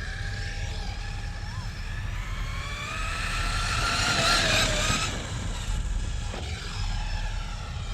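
RC monster truck's electric motor whining, its pitch rising as the truck speeds up to a loudest peak about four to five seconds in, over a steady low rumble.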